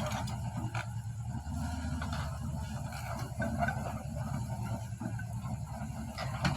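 A small engine running steadily, with a few short knocks over it.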